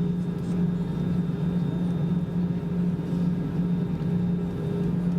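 Steady cabin drone of an Airbus airliner on the ground with its engines at idle, a constant low hum under an even rush of air.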